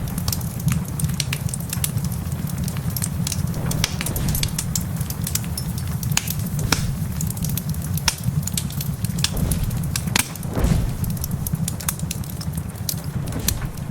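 Wood fire crackling in a fireplace: many sharp snaps and pops, with a few heavier pops, over a steady low rumble.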